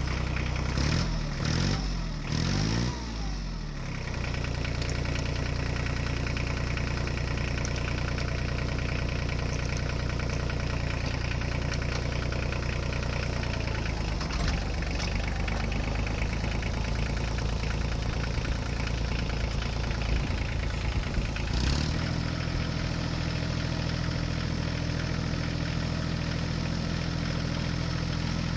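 An engine-like running sound, steady and idling, that shifts its note about 4 seconds in, again around 14 seconds, and again about 22 seconds in.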